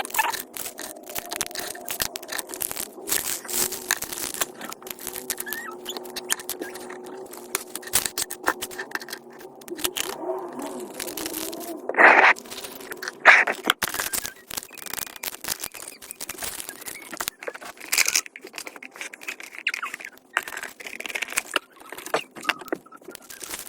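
Packing noises: irregular rustling, scraping and crinkling of packaging and items being handled, with scattered small clicks and taps. A couple of louder short sounds come about halfway through.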